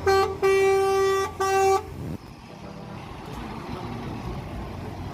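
Truck horn sounding three times, a short blast, a long one and a short one, on one steady pitch. A low engine rumble under it ends about two seconds in.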